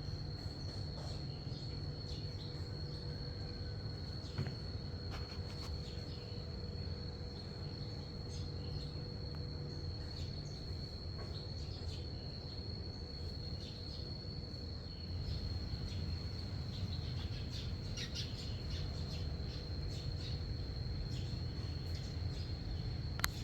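Passenger train riding along: a steady low rumble with a thin, steady high-pitched whine over it and a few faint clicks, getting a little louder about two-thirds of the way through.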